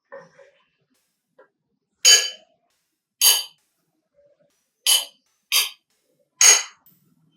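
A metal utensil struck against a steel kitchen vessel: five sharp, ringing metallic clinks, spaced roughly a second apart, each dying away quickly.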